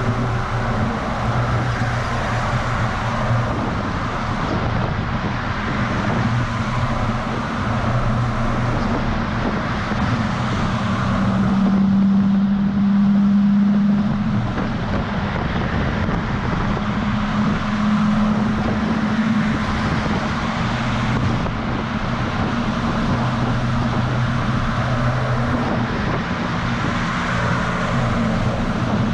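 DAF XF semi-truck driving, heard from a camera mounted on the outside of the cab: a steady low engine drone over wind and tyre noise. The engine note shifts in pitch and is loudest about twelve seconds in.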